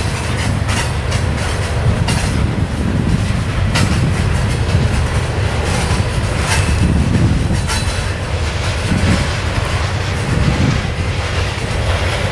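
Coal hopper cars of a slow-moving freight train rolling past: a steady low rumble of steel wheels on the rails, with scattered clicks and knocks as the wheels pass over rail joints.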